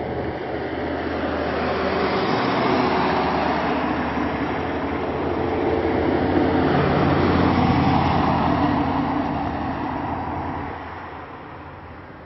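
A motor vehicle's engine and road noise that swells and then fades about eleven seconds in.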